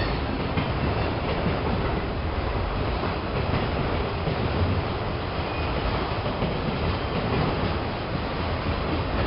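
Freight train of autorack cars rolling steadily past, the steel wheels running on the rails.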